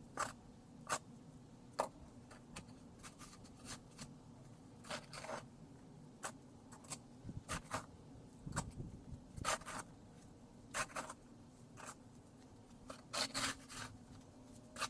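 Snow shovel scraping and crunching through packed snow in short, irregular strokes, about a dozen of them.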